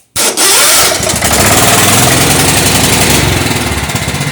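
Craftsman lawn tractor's 16.5 hp Kohler Command engine starting with a click and catching almost at once, then running steadily at fast throttle. Its note changes slightly about three seconds in. It runs smoothly on a newly made spark plug lead and a new carburetor.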